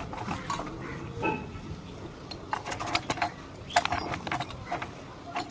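Irregular light clicks and clinks, like small hard objects handled or knocked together, most frequent in the second half.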